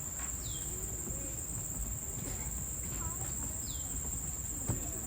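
Steady, high-pitched drone of insects, with a short falling bird chirp twice, about half a second in and again near the four-second mark. A single click comes near the end.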